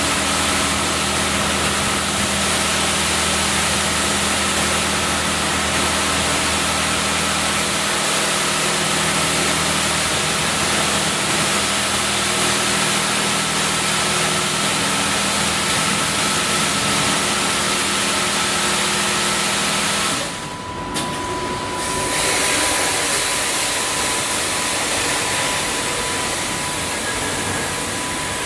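Automatic car wash machine running: a steady, loud rush with a low hum and a thin whine. About twenty seconds in it briefly dips, then carries on with a different steady whine as the wash moves to another stage.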